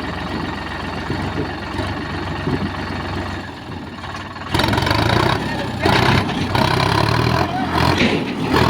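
Tractor diesel engine running under load in a pulling test, getting suddenly louder about halfway through.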